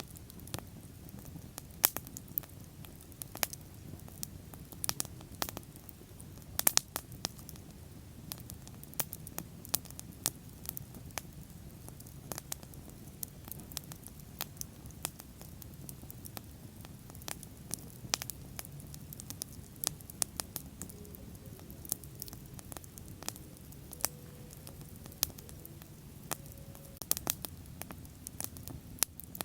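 Bonfire burning, with frequent irregular crackles and sharp pops over a steady low rumble of flames.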